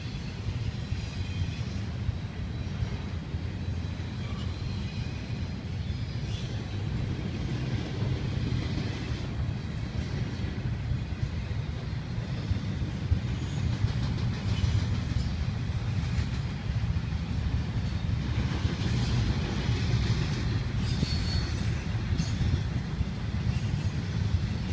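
Double-stack intermodal freight train cars rolling past with a steady low rumble. The wheels give occasional brief high squeals, more of them near the end.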